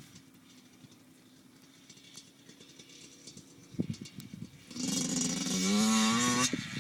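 Yamaha YZ80 two-stroke dirt bike engine, faint and steady at first, then revving loudly near the end for under two seconds, its pitch climbing before it cuts off suddenly. A few knocks sound just before the rev.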